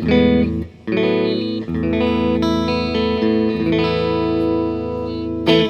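Epiphone Les Paul Plus Top Pro electric guitar played on a clean tone through a Blackstar tube amp: chords ring out, break off briefly just under a second in, then sustained chords follow. A last sharp strum comes just before the sound cuts off.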